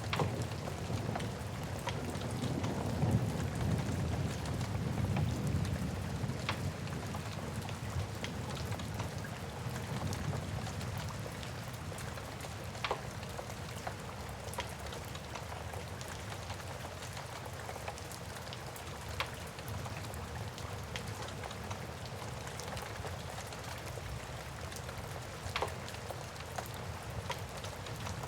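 Steady rain with a wood fire crackling, giving sharp pops every few seconds. Low rumbling thunder fades away over the first third.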